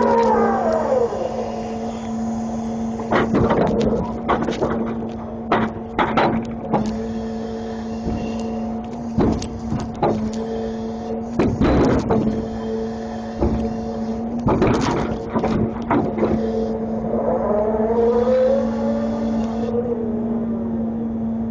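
A grapple truck's engine and hydraulics run steadily, the pitch rising and falling as the engine is revved at the start and again near the end. In between come repeated sharp metallic clanks and knocks from the grapple handling its load.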